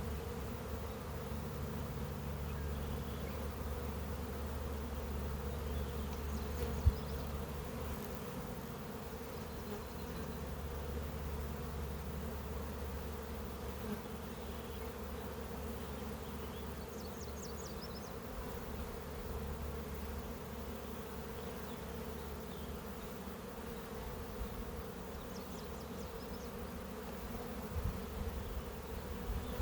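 Honeybees buzzing steadily as a crowded colony, with one sharp click about seven seconds in.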